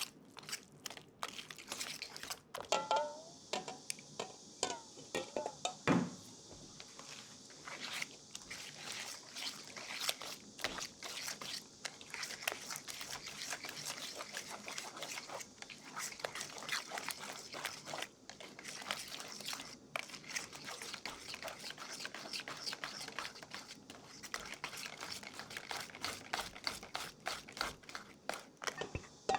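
Dense, rapid crunching and crackling of a dry, crumbly baking ingredient being worked, with a short squeak about three seconds in and a single knock about six seconds in.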